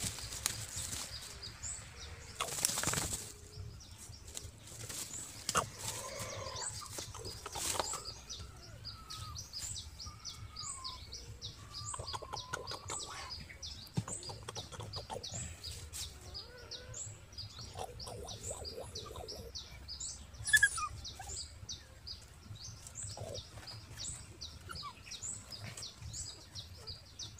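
Small birds chirping over and over in short, high, thin notes, with a few faint whimpering squeaks from newborn puppies and brief rustles of handling. One louder short call about twenty seconds in.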